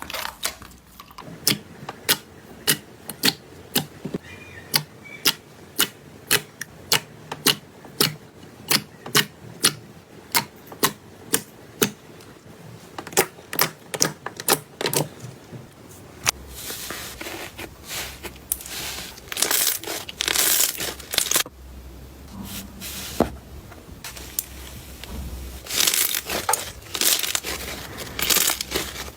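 Slime being worked by hand, giving sharp popping clicks about two a second. About halfway through these give way to denser crackling and crunching.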